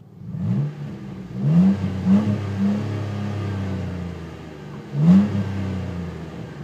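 Jeep Wrangler JK V6 engine running through a newly installed Dynomax aftermarket exhaust, revving up. The pitch climbs in several short steps, holds steady, then rises sharply once more near the end.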